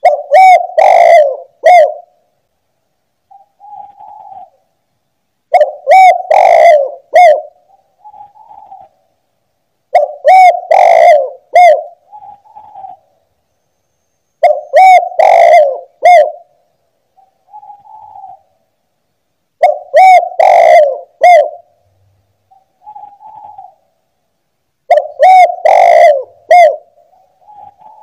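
Spotted dove (tekukur) cooing its repeated call: six phrases about five seconds apart, each a run of loud coos followed by a softer trailing coo.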